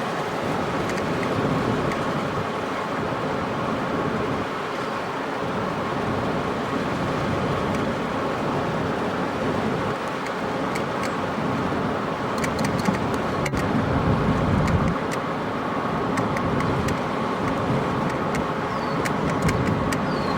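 Steady road and engine noise of a car driving, with a few light clicks about twelve to fourteen seconds in.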